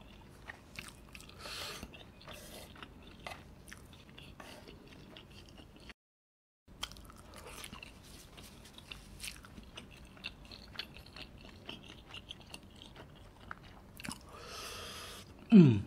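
Close-miked chewing and wet mouth clicks of a person eating soft cheese-topped dumplings. A breath hisses about two seconds in and again near the end, closing with a short falling vocal sound, and the audio drops out briefly about six seconds in.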